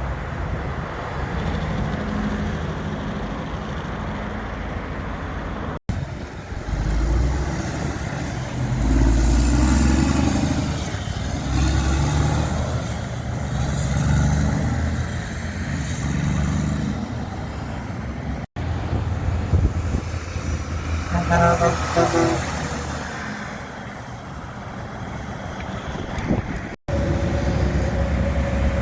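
Truck engines running and passing in road traffic, in several short clips joined by abrupt cuts. A truck horn sounds briefly about three-quarters of the way in.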